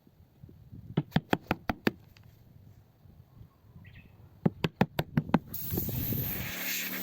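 Two quick runs of sharp knocks, about five blows each and a few seconds apart. Near the end a steady hiss starts, and a low steady hum comes in after it.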